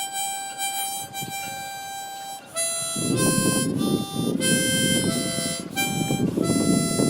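Background music led by a harmonica playing long held notes. About three seconds in, a fuller accompaniment comes in and the music gets louder.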